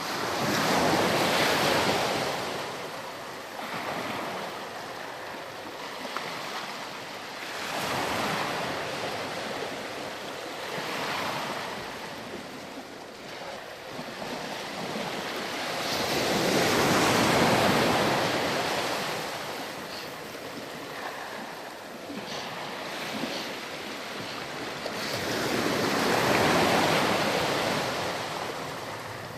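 Ocean waves washing onto a sandy beach, each swell of surf rising and falling away, the biggest about a second in, midway and near the end.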